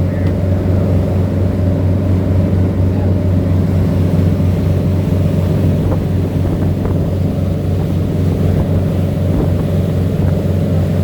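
Diesel engines of a fishing head boat running steadily under way, a constant low drone, with some wind on the microphone.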